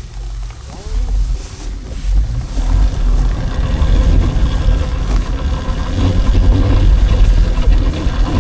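Wind buffeting the microphone and a low rumble while riding an electric dirt bike. It grows louder over the first two or three seconds as the bike picks up speed, then stays loud.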